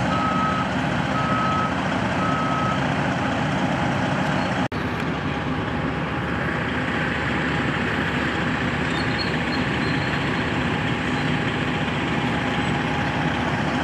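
Heavy truck engine running steadily, with its reversing alarm beeping at an even pace for the first few seconds and then stopping as the truck backs up. The sound breaks off for an instant about five seconds in.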